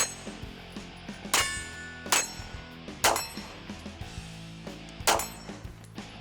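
Sig P320 pistol shots fired in an irregular string, about five loud ones with a few fainter, each followed by the ringing clang of a steel target being hit. A steady music bed runs underneath.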